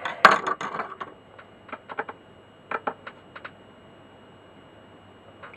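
A screwdriver driving a wood screw home into a record player's wooden cabinet: a sharp clatter about a quarter second in, then scattered short clicks and knocks as the screw is tightened.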